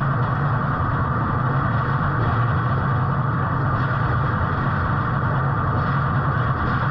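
Tractor engine running steadily under load, a constant low drone with no change in pitch.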